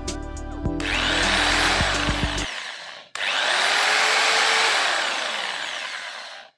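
Corded electric hammer drill running after repair: the motor whirs steadily, stops briefly about three seconds in, then runs again and tails off before cutting off.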